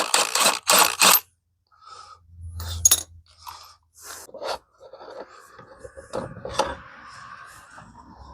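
Metal clinking, clanking and scraping of tools and parts while a mini bike is set on a stand and its wheel is taken off: a quick run of sharp clatters in the first second, then scattered clicks and a scraping sound through the second half.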